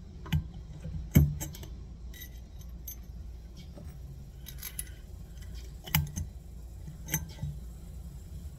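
Metal clinks and knocks from handling tools and wheel-hub parts: several sharp, separate strikes, the loudest about a second in and a pair each near the sixth and seventh seconds.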